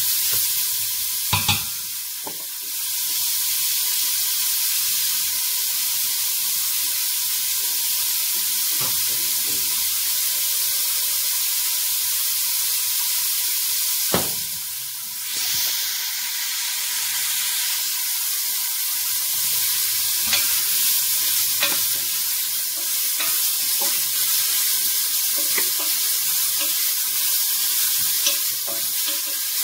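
Chopped spring onions and leek sizzling in oil in a stainless steel pot while being stirred with a wooden spoon. Two sharp clicks stand out, about a second and a half in and about halfway through.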